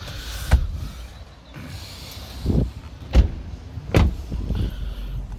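Four short, sharp knocks and thumps spread over a few seconds, over a low rumble.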